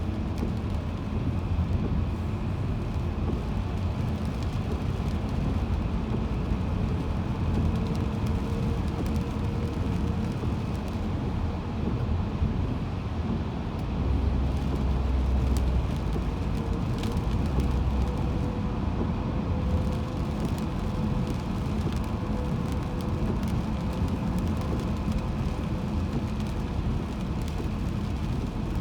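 Steady road rumble of a car driving on the highway, heard from inside the moving car, with a faint humming tone held through it.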